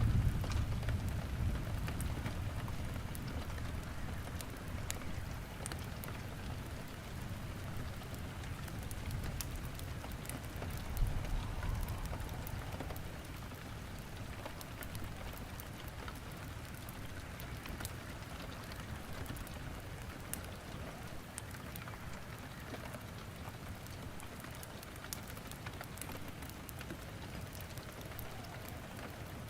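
Steady rain falling, with scattered sharp crackles and pops from burning wood logs in a fireplace. A low rumble is strongest at the start and fades away over the first dozen seconds.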